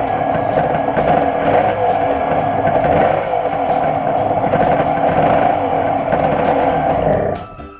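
Yamaha TZR250 1KT two-stroke parallel-twin engine, fitted with RZ250RR 51L carburettors, running steadily. The sound drops away sharply near the end.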